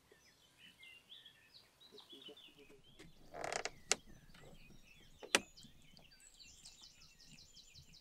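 Small birds chirping and singing, with a fast run of high ticking notes near the end. A short burst of noise and a few sharp knocks come around the middle, the loudest a little past five seconds in.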